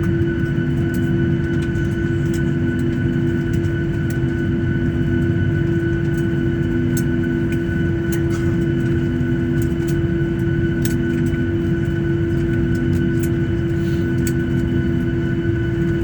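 Steady cabin noise of a Boeing 737-800 on the ground: an even hum with several held tones over a low rumble, and a few faint clicks.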